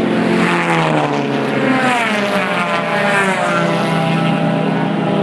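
Several race cars passing one after another, their engines at high revs, each engine's pitch falling as it goes by, with more cars running steadily behind.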